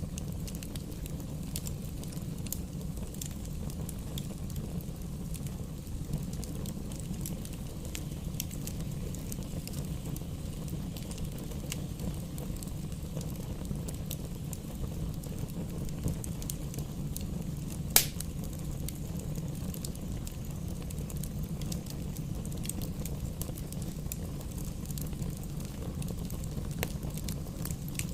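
Campfire burning, with a steady low rumble and scattered small crackles, and one loud sharp pop about two-thirds of the way through.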